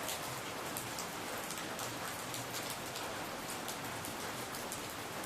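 Steady heavy rain falling, a dense even wash of sound with many individual drops striking close by as short sharp ticks.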